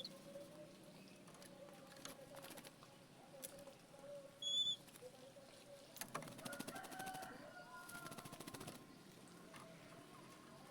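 Oriental magpie-robin giving a single short, clear whistled note about four and a half seconds in, over a faint steady warble. From about six to nine seconds there is a rapid run of clicking rattles with faint gliding tones.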